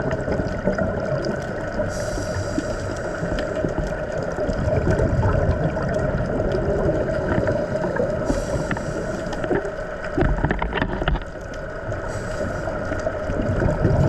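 A boat's engine with a steady hum over churning water noise. Short bursts of hiss come about 2, 8 and 12 seconds in.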